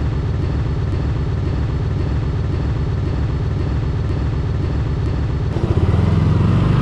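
Motorcycle engine running at low revs with a steady, fast pulse; it gets louder and fuller about five and a half seconds in.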